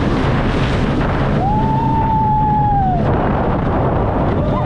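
Roller coaster ride heard from a rider's wrist-mounted camera: a loud, steady rush of wind over the microphone and train rumble, with one long held cry about a second and a half in.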